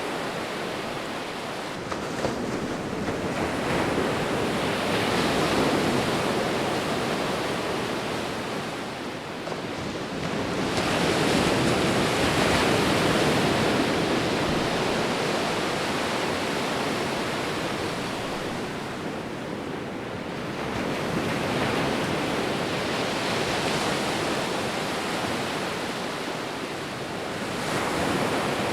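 Sea waves breaking and washing up on a beach, a continuous rush of surf that swells and ebbs, with four broad surges several seconds apart.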